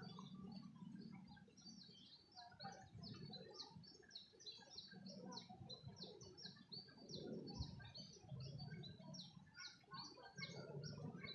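Small birds chirping: a fast, continuous run of short, high notes.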